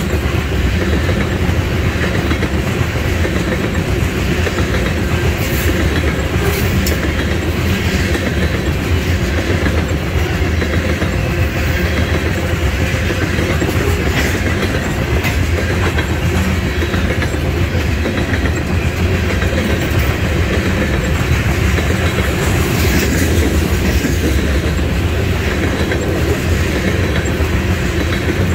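Tank cars of an oil train rolling past steadily, their wheels rumbling on the rails with the clickety-clack of wheels over the rail joints.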